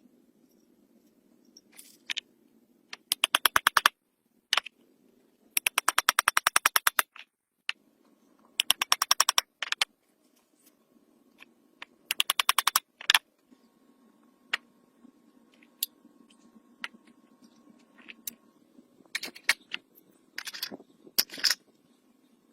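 Several bursts of rapid, evenly spaced sharp mechanical clicks, about a dozen a second, with short pauses between bursts, over a faint steady hum.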